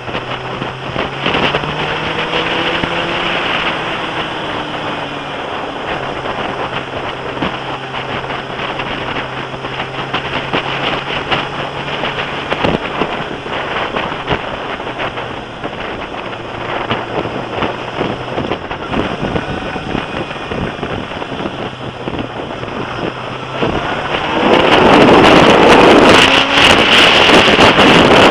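Suzuki GSX-R ('Gixxer') motorcycle riding along, its engine note mostly steady, rising and falling in pitch a few times. Heavy wind noise on the camera microphone covers it, and the wind gets much louder about 24 seconds in.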